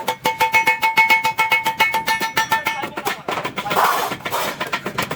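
Rapid hammering on stainless steel sheet, about eight strikes a second, with the metal ringing steadily between blows. The hammering breaks off briefly a little past halfway, with a short hiss, then picks up again near the end.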